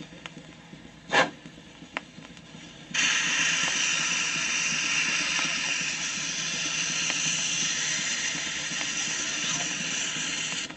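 A loud, steady hiss that starts abruptly about three seconds in and cuts off suddenly near the end, over a low hum, with two sharp clicks before it.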